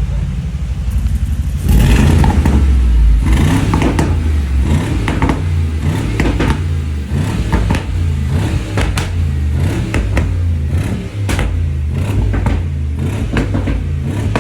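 Mercedes-Benz G63 AMG twin-turbo V8 running through a custom exhaust, just after start-up. It is revved hard about two seconds in, then idles and blips unevenly with many sharp exhaust pops and crackles.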